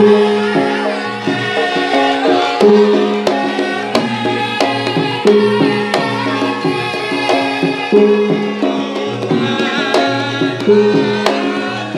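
Live band music, an instrumental passage: hand-drum strokes under a held, repeating melody.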